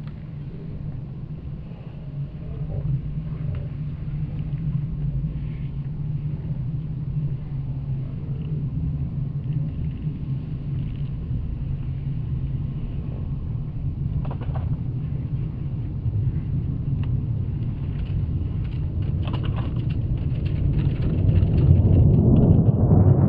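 Jet engines of a Panavia Tornado, its twin RB199 turbofans, as a steady low rumble that slowly grows louder, swelling into a fuller rushing roar near the end as the aircraft draws nearer.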